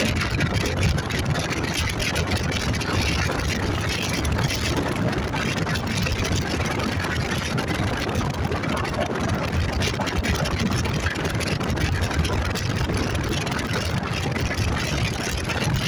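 Motorcycle on the move: a steady engine running under continuous wind rush on the microphone.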